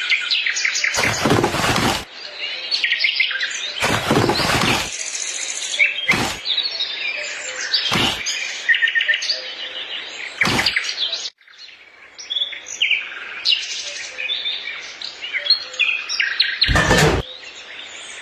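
Small birds chirping and twittering, broken by about six short, sharp noises spread through, two of them lasting about a second.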